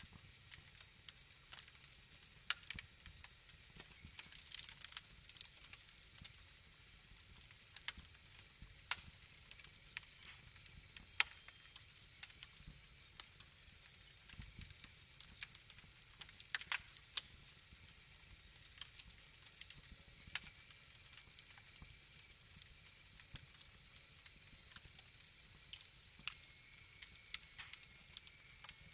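Wood fire crackling, with irregular sharp pops and snaps over a soft steady hiss. A faint thin high whistle joins about two-thirds of the way in.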